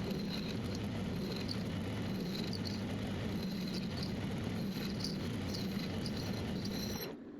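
Metal lathe running steadily while the tool cuts weld material from a steel auger flange, with short high squeaks from the cut scattered through the hum.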